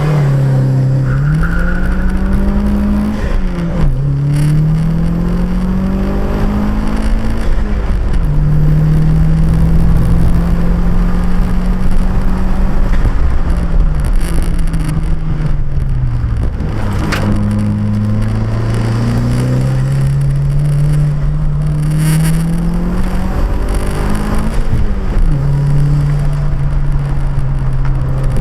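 Car engine driven hard up a hill climb. The revs climb and drop back sharply again and again as it shifts gears and lifts off for corners, and a sharp click sounds once midway.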